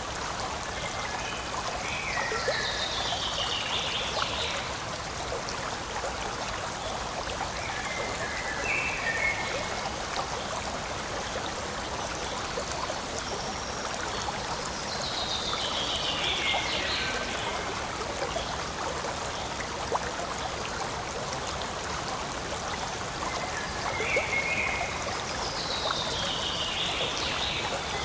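Forest stream flowing and trickling steadily. A short, high, falling call comes through three times, about every eleven seconds.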